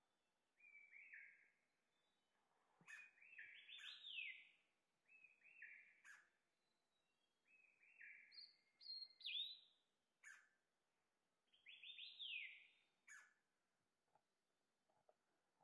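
Small songbird calling faintly: short phrases of three or four quick downward-sweeping whistled notes, repeated every couple of seconds, with a few sharp ticks in between.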